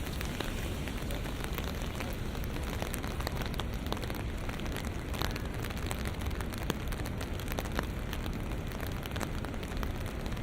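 Steady rain falling, an even hiss dotted with many small drop ticks, over a low rumble.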